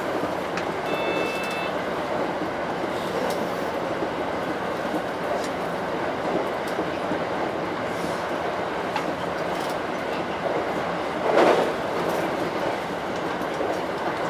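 Electric commuter train running over a steel truss bridge, heard from the driver's cab: a steady rumble of wheels on rail with faint clicks. A short beep sounds about a second in, and a louder clunk comes about eleven seconds in.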